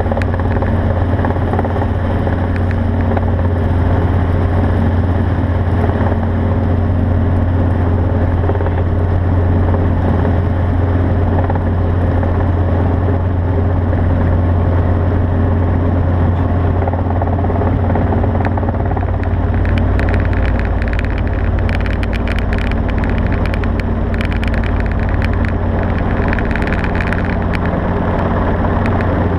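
An engine running steadily, with a constant low drone. Light scattered ticking joins in during the latter part.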